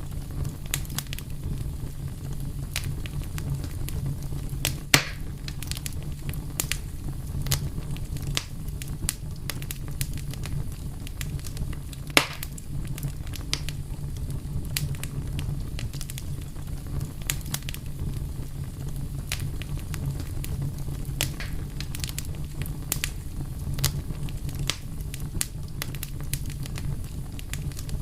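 Fire crackling: a steady low rumble of flames with many small crackles and occasional louder pops, two of them standing out about five and twelve seconds in.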